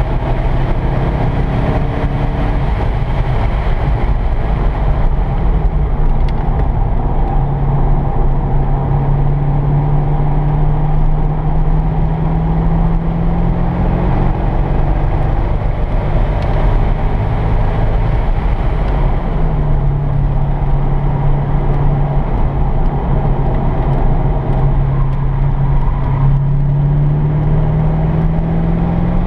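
C5 Corvette Z06's LS6 V8 under hard acceleration on a road course, heard from inside the cabin: the engine note climbs in pitch twice, each climb ending with a drop, over steady road and wind noise.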